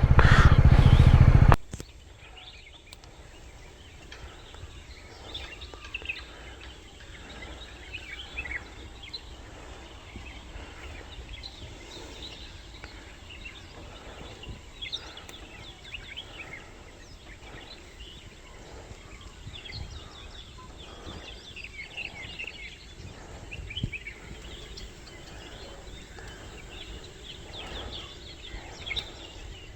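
Loud motorcycle noise cuts off suddenly about a second and a half in. What follows is quiet outdoor ambience with many short, high bird chirps and calls scattered throughout.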